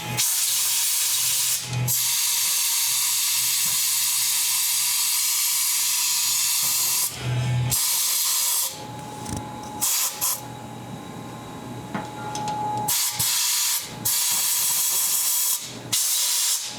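Compressed-air blow gun blowing brake cleaner and debris out of a freshly tapped thread hole: one long hissing blast of about seven seconds, then several short bursts.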